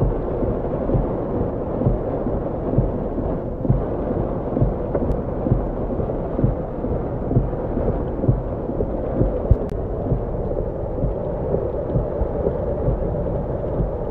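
Heavy rain drumming on a car's roof and windscreen, heard from inside the car: a steady, dense patter of low thuds.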